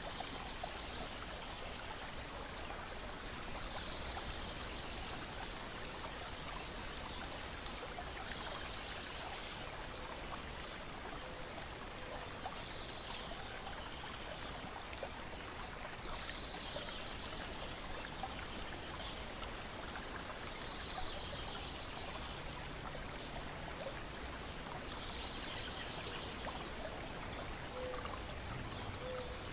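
Lake water lapping and trickling steadily against a shore and deck. Faint high chirping recurs about every four seconds, with a few soft clicks.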